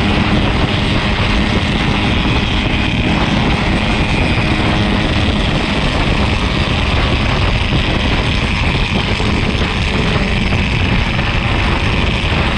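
Yamaha RX-King two-stroke motorcycle running steadily while riding, its engine drone mixed with steady wind rumble on the microphone.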